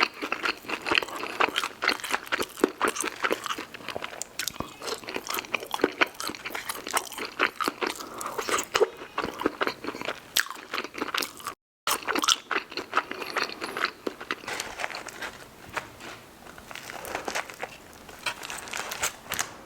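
Close-miked eating: a person biting and chewing crispy fried food with rapid, dense crunching and wet mouth sounds. The sound cuts out completely for a moment a little past halfway.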